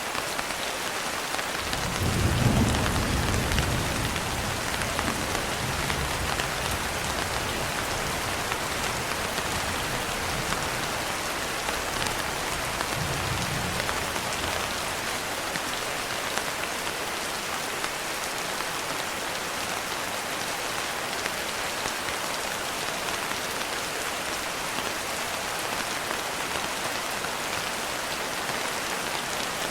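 Steady heavy rain falling, with a roll of thunder swelling about two seconds in and rumbling away over several seconds, then a shorter low rumble of thunder a little later.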